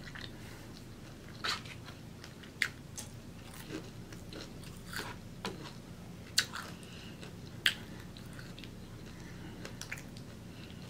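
Close-miked chewing of fried shrimp nuggets, with scattered sharp crunchy clicks, the loudest about six and a half and seven and a half seconds in, over a faint steady hum.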